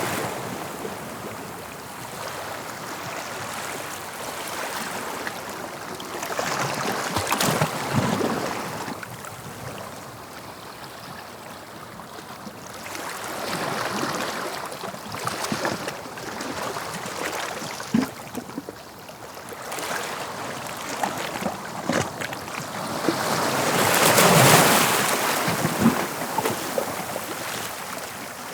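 Sea waves breaking on the shore and washing back, in several swelling surges with quieter wash between them; the loudest breaker comes near the end.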